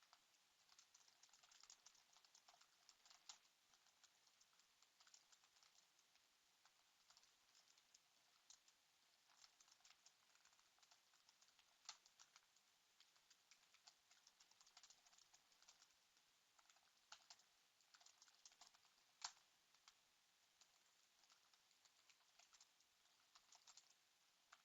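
Faint typing on a computer keyboard: irregular runs of quick key clicks with short pauses between them, and a few louder strikes.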